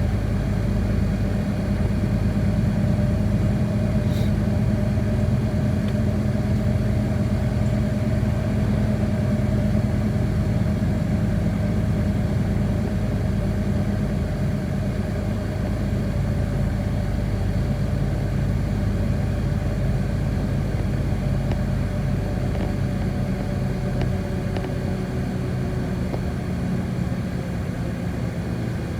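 City bus engine and drivetrain running steadily, heard from inside the passenger cabin, with a low drone and a whine that drifts slowly lower in pitch.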